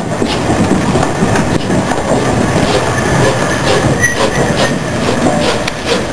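Steam train passing very close: a loud rumble of wheels on the rails with irregular sharp clacks over the rail joints.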